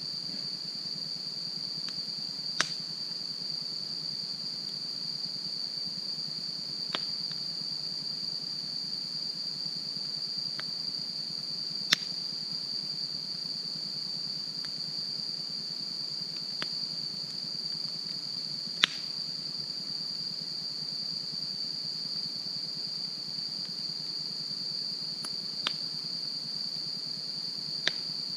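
Wood fire crackling, with a handful of sharp single pops at irregular intervals several seconds apart, over a steady high-pitched chorus of crickets.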